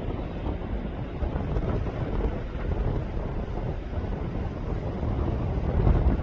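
Wind buffeting the microphone: an uneven low rumble with a stronger gust near the end.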